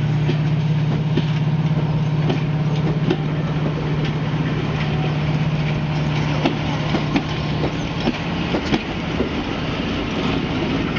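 Diesel-hauled train running on the rails, with a steady engine drone and wheels clicking over rail joints. The engine note fades about eight seconds in while the clicks come more often.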